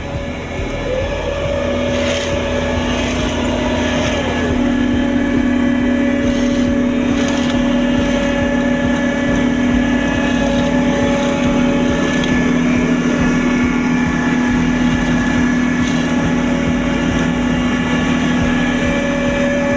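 The engine of heavy road-paving machinery running steadily with a droning hum, which grows louder about two seconds in. A few short scraping strikes come in the first few seconds.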